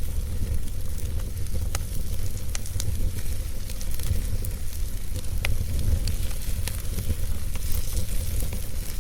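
Wood fire burning: a steady low rumble and hiss with scattered sharp pops and crackles of burning wood.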